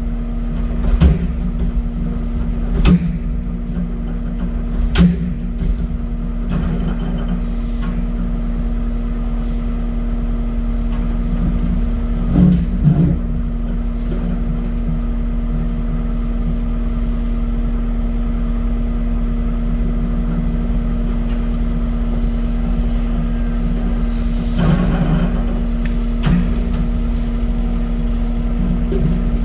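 A heavy-equipment diesel engine runs steadily under load. Sharp knocks and clanks come about a second, three, five, twelve and twenty-five seconds in, as the excavator bucket scrapes and bumps against saw-cut concrete bridge sections.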